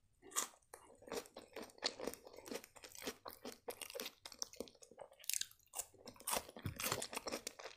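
A person chewing and crunching food, with many short irregular crunches and wet mouth clicks.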